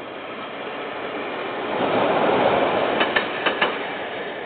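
Train passing on the railway line: a rush of wheel-on-rail noise that swells to a peak and then fades, with four sharp clacks in two quick pairs about three seconds in as wheels cross a rail joint.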